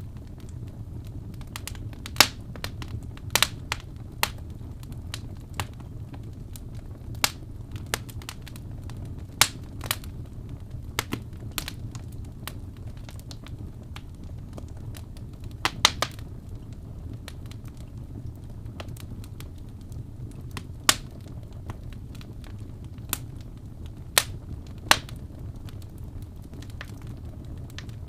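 Wood fire in a fireplace crackling: sharp, irregular pops, roughly one a second, over a steady low hum.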